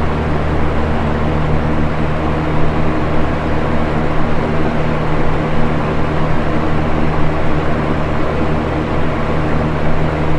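Box fan running steadily: an even rush of air over a low motor hum.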